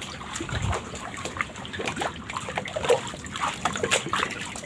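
Water trickling and splashing in small, irregular spatters, with a low rumble in the first second.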